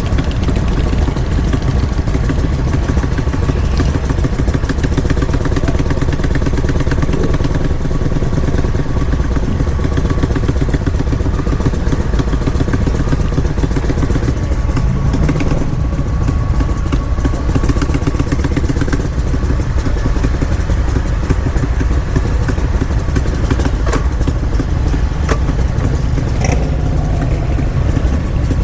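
Many motorcycle engines running together in a steady, loud low rumble, with a few sharp clicks or knocks near the end.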